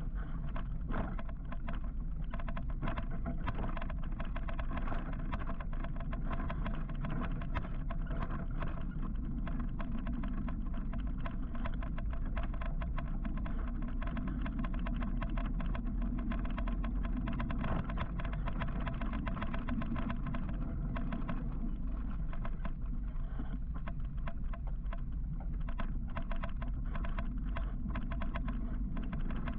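Steady road and wind noise from riding an electric motorcycle through traffic, with many small clicks and rattles throughout.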